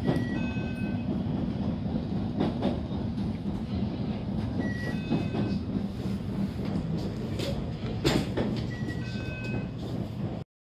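JR Kyushu electric train from inside the car: a steady low rumble with scattered clicks and knocks. A short electronic chime of a few tones sounds three times, about every four and a half seconds. The sound cuts off just before the end.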